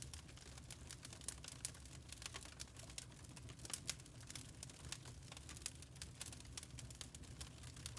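Burning charcoal crackling: many small irregular snaps and ticks with an occasional louder pop, over a low steady rumble.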